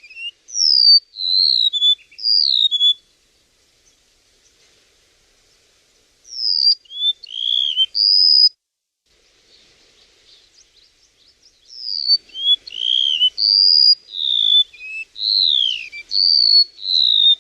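Song of a chim sâu (flowerpecker): rapid clear whistled notes sliding up and down, in three bursts with pauses of a few seconds between, played as a lure call for bird trapping.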